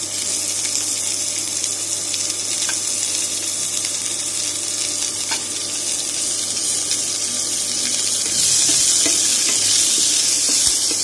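Chopped onions sizzling in hot oil in a frying pan as they are stir-fried: a steady hiss that gets louder about eight seconds in, with a few faint clicks.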